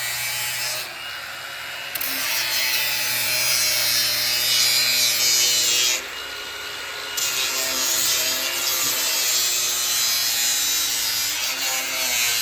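A grinder running steadily, grinding down the wall framing to smooth it flush. Its motor whine holds throughout while the grinding hiss drops away briefly twice, about a second in and again about six seconds in.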